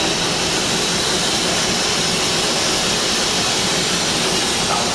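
Steady rushing hiss of a train, heard from inside a passenger carriage, with no wheel clicks or other distinct beats.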